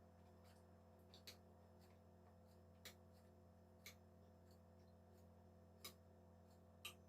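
Near silence over a steady low hum, broken by about six short, faint clicks roughly a second apart: small mouth and utensil sounds of someone eating.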